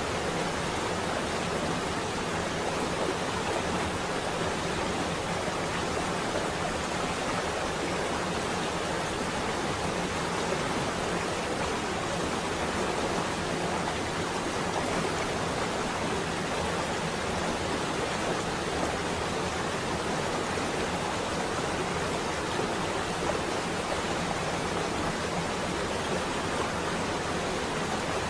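Rain on a window, an even, unbroken hiss that holds at one level throughout.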